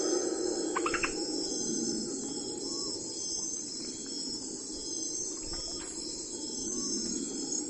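Crickets chirping in a steady, pulsing high trill over a low steady background hum, with a few short high chirps about a second in.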